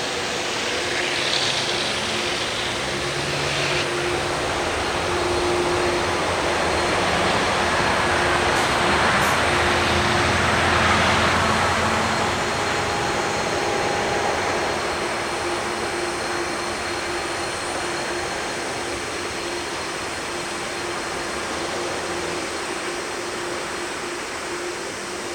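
Airbus A380's four Rolls-Royce Trent 900 turbofans at takeoff power, a loud jet roar that swells to a peak about ten seconds in and then slowly fades.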